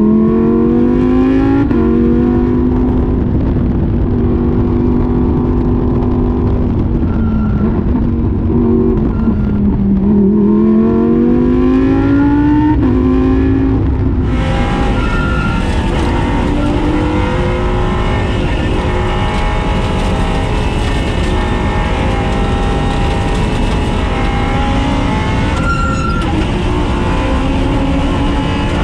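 Race car engine running hard on track, its pitch climbing under acceleration and dropping back under braking several times.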